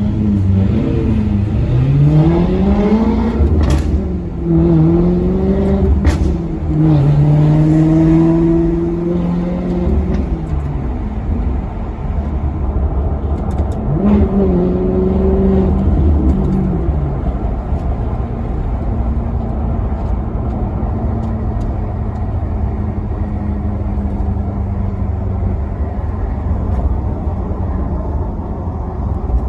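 Maserati Quattroporte Sport GT V8 accelerating hard, its pitch climbing and then cut by a gear change twice in the first six seconds, then holding high revs before falling away. About halfway through a quick throttle blip sends the revs up and down sharply, as on a rev-matched downshift, and the engine then runs steady at lower revs.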